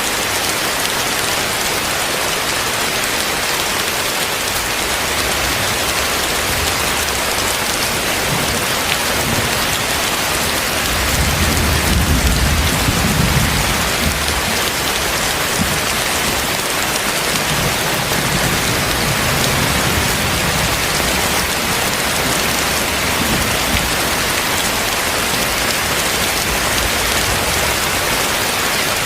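Heavy rain falling steadily. A low rumble of thunder swells about eleven seconds in and lasts a few seconds, with a weaker one a few seconds later.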